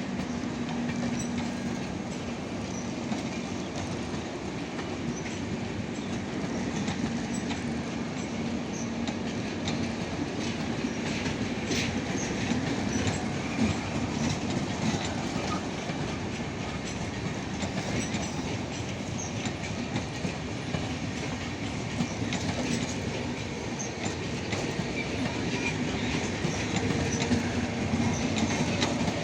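Indian Railways passenger express train running on the track: a steady rumble with the clickety-clack of wheels over rail joints and scattered metallic clicks, growing slightly louder near the end.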